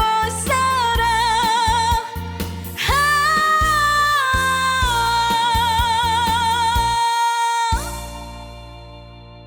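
A female trot singer holds a long closing note with vibrato over a backing band with a steady bass and drum beat. Near the end the band hits a final chord and the music fades away.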